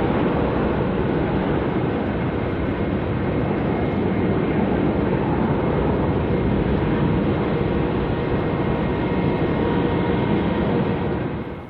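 Airbus A350-900 jet engines at takeoff power: a loud, steady jet rumble with faint whining tones through it, cutting off abruptly near the end.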